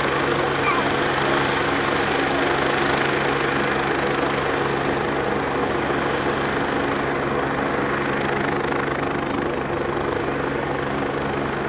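Agusta A109E twin-turbine helicopter running steadily, a constant turbine whine over the fast beat of the rotor blades, with no change in pitch or level.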